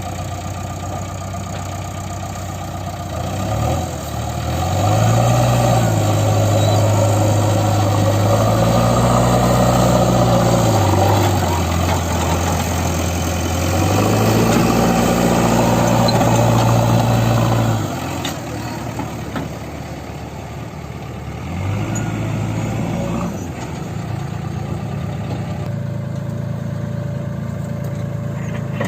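Heavy diesel engine of a farm or earth-moving machine, revving up hard and holding high revs for several seconds, twice, with a drop back to idle between, then a short rev near the end: the machine straining under load to pull through deep mud.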